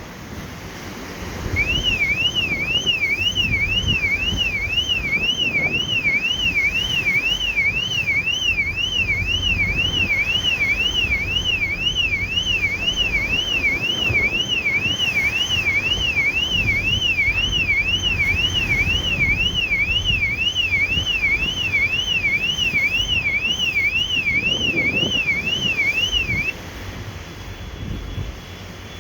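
Electronic alarm siren warbling, its pitch sweeping rapidly up and down about two and a half times a second. It starts about a second and a half in and cuts off suddenly near the end, over a low rumble and wind noise.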